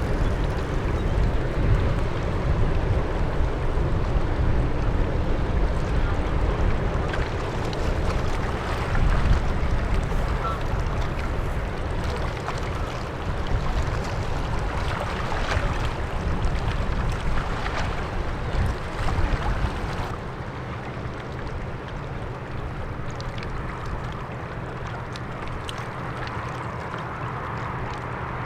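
Low steady rumble of a passing ship's engine, with wind buffeting the microphone. The sound eases off somewhat about two-thirds of the way through.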